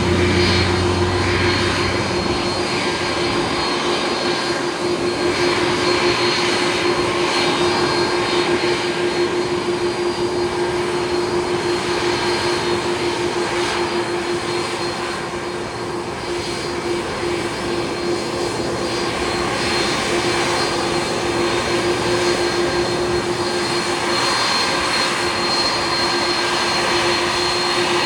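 Airbus A330 jet engines running steadily: a continuous rush of noise with a steady hum.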